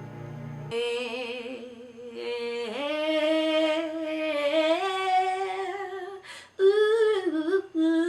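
A person humming a slow tune in long held notes that step up and down in pitch, with a couple of short breaks; soft background music cuts off under a second in.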